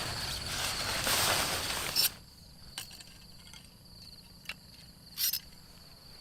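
Steady high-pitched insect trill in forest at night. For the first two seconds a loud rustling hiss covers it, then cuts off abruptly; after that a few sharp snaps stand out, the loudest a double snap about five seconds in.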